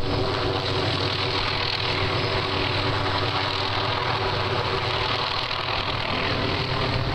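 Helicopter running steadily: a constant engine drone with several steady pitches over a rushing noise.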